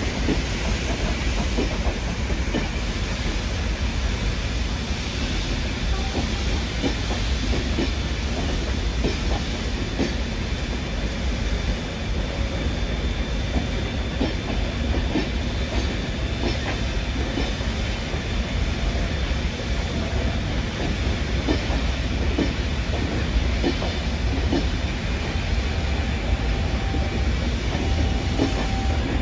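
Steam-hauled train of coaches rolling slowly through station pointwork: a steady low rumble with wheels clicking irregularly over rail joints and crossings.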